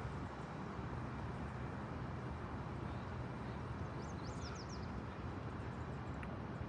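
Steady outdoor background noise, a low rumble and hiss, with a quick run of high chirps about four seconds in.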